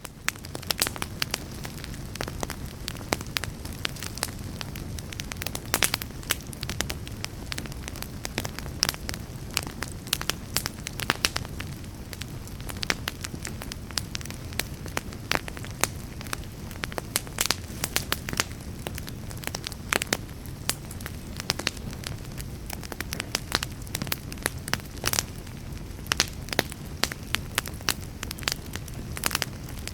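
Wood fire crackling in a fireplace: many irregular sharp pops and snaps over a steady low rumble of the burning flames.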